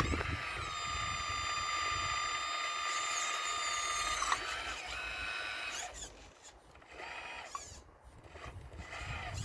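RC Caterpillar excavator's electric hydraulic pump whining steadily for about four seconds, then falling away to quieter, short whines and clicks as the machine works in spurts.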